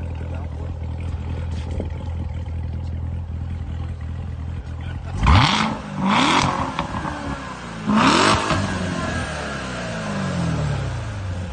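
Chevrolet Corvette C7 Z06's supercharged 6.2-litre V8 idling with its exhaust in track mode, then revved three times in the second half. Each rev climbs quickly and falls back, and the last one settles slowly to idle.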